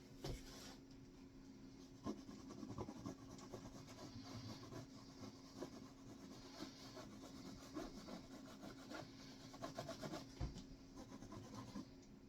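Faint scratching, rubbing and light tapping of a paintbrush on a canvas, many small irregular strokes, over a steady low hum.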